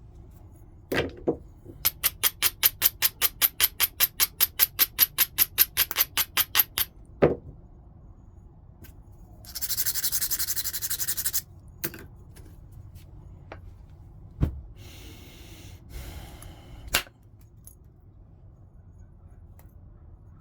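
Flintknapping: a stone edge being rubbed with an abrading stone in a fast, even run of strokes, about six a second, then a steady scrape lasting about two seconds. A few single knocks and sharp clinks of stone sit between them.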